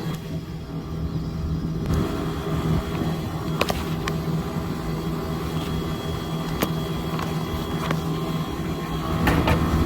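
Steady machine hum with a low droning tone, broken by a few sharp clicks.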